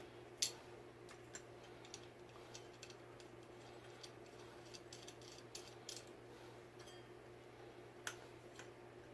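Scattered light clicks and ticks of small fan parts being handled and fitted during switch cap and light kit assembly. A sharper click comes about half a second in and another near the end, over a faint steady hum.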